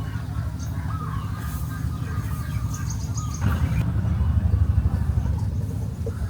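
Small birds chirping now and then over a steady low rumble that swells in the middle.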